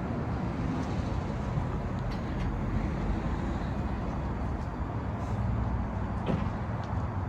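Freightliner M2-106's Detroit DD8 diesel engine running steadily at idle, a low rumble with a few faint ticks.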